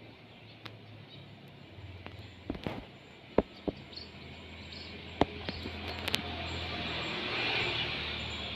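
Open-field ambience: a steady low hum and a hiss that swells toward the end, with a few faint short bird chirps and several sharp clicks.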